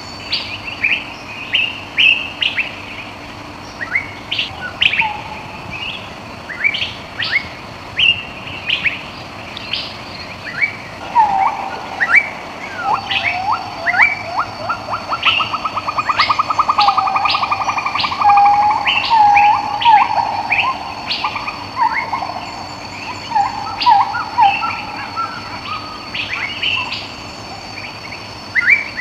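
Birds calling: many short, high chirps throughout, and from about eleven seconds in a lower run of notes that breaks into a fast rattling trill for several seconds. A thin steady high tone runs underneath.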